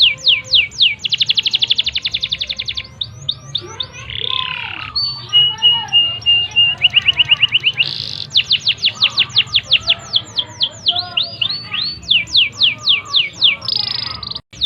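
Domestic canary singing a long continuous song: fast repeated falling sweeps and rapid trills, with a steady held whistle in the middle, then a brief pause near the end.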